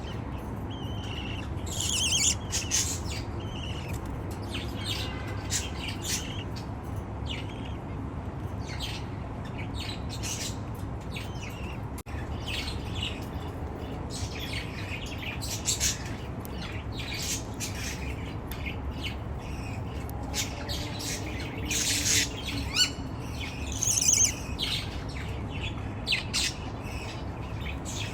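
Baby budgerigar chicks calling with many short squawks and chirps, scattered irregularly and sometimes overlapping, over a steady low hum.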